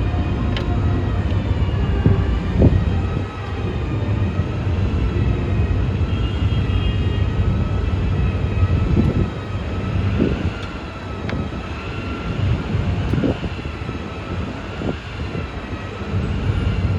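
A vehicle running with a steady heavy low rumble, broken by a few short dull knocks.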